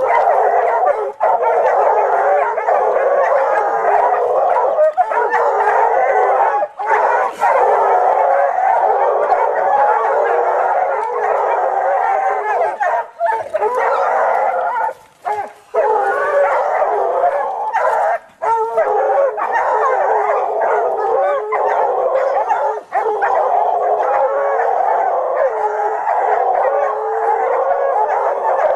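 A dog howling and whimpering almost without pause, a wavering cry broken only by a few short gaps.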